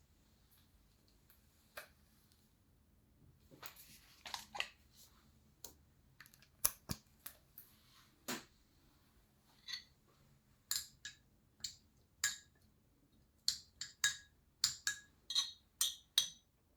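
A series of short clinks and taps on dishes, sparse at first and coming more quickly in the second half.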